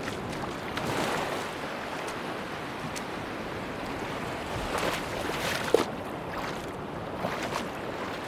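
Sea waves washing up on a beach: a steady rush of surf that swells and eases, with small crackles and splashes of water.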